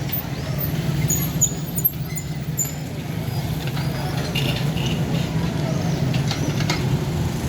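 Street traffic noise: a steady low rumble of passing vehicles, with faint scattered high squeaks and chirps.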